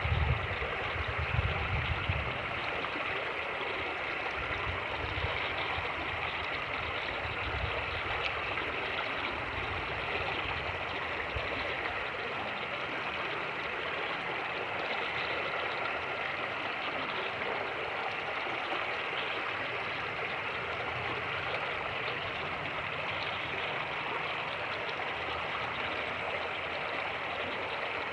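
Fast-flowing creek water rushing steadily. Wind buffets the microphone with low rumbles, strongest in the first couple of seconds and coming back on and off later.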